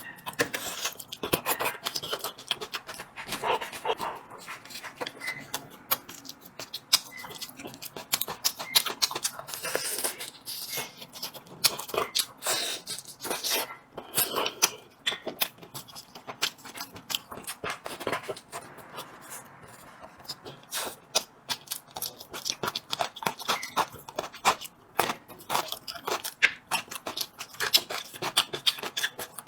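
Close-up eating sounds: a steady run of quick, irregular clicks and crunches from chewing and biting.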